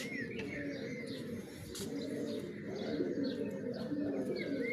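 Domestic pigeons cooing, several birds overlapping in a steady low warble, with a short higher chirp near the start and another near the end.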